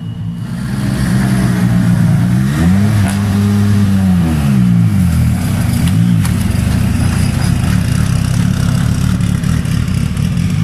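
Rally car engine idling, revved once about two and a half seconds in, the pitch rising and falling back over roughly two seconds, then a short second blip of the throttle near six seconds.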